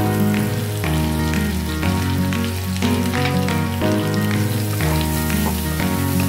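Onions, carrots and aromatics sizzling as they sauté in butter in a wok while a wooden spatula stirs them. Background music with a bass line plays over it.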